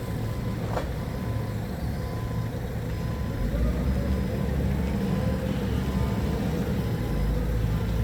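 Forklift's diesel engine running steadily, its low rumble growing louder about three seconds in, with a brief click just before a second in.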